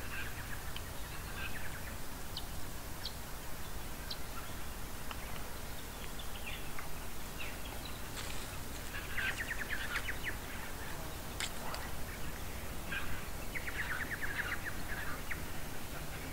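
Birds chirping in bushland, with two rapid chattering trills, about halfway and again near the end, over a faint steady low rumble.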